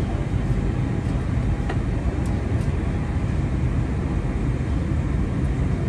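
Steady rumble of a moving electric passenger train heard from inside the carriage, with a few faint clicks about two seconds in.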